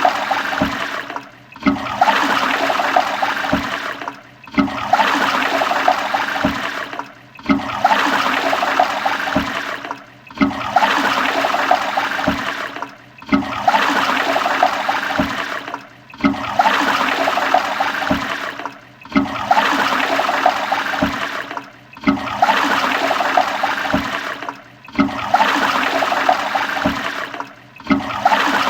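Toilet flushing: a rush of water that starts suddenly and tails off. The same short flush repeats about every three seconds, each one cut off by a brief gap.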